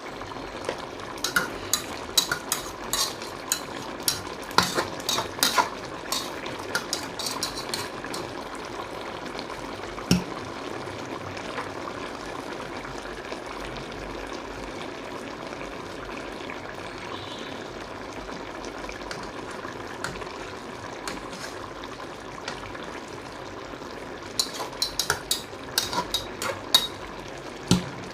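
Chicken wings adobo sizzling steadily in a pan, with a utensil clinking and scraping against the pan during stirring in the first several seconds and again near the end.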